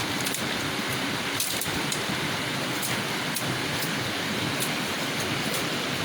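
River water running steadily, with a few faint, irregular clicks over it.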